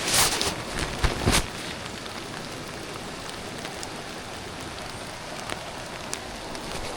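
Steady rainfall, an even hiss with scattered ticks of single drops. In the first second and a half a few louder rustles and knocks stand out over it.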